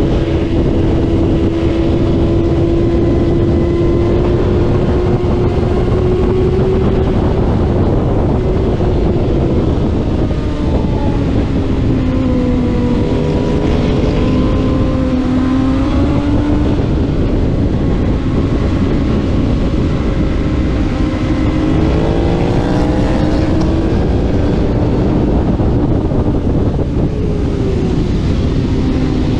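Racing motorcycle engine heard onboard at speed over heavy wind rush. The engine pitch holds and slowly climbs, then drops and rises again several times as the bike shifts gears and changes speed.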